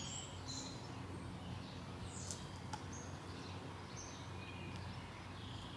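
Birds chirping faintly: a handful of short, high chirps scattered through, over a steady low hum.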